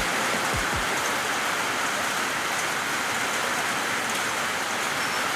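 Steady rain falling on a wet concrete path and grass, an even hiss, with two soft low thumps under a second in.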